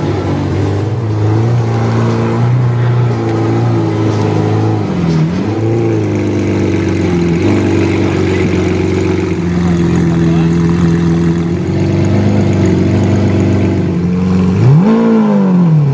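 Lamborghini Veneno's 6.5-litre V12 idling steadily. The revs dip and pick up about five seconds in, and near the end a quick blip of the throttle rises and falls.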